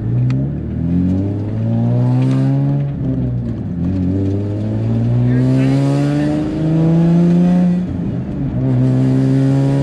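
Turbocharged Nissan 350Z's 3.5-litre V6 accelerating, heard from inside the cabin: the engine note climbs in pitch in stretches of one to three seconds and drops back between them as the car is shifted up through the gears.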